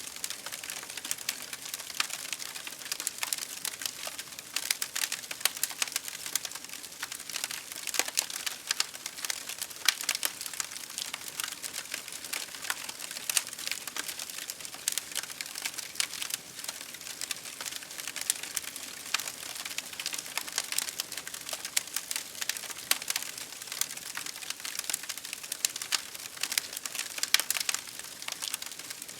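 Campfire crackling steadily, with many small irregular pops and snaps over a constant hiss of rain.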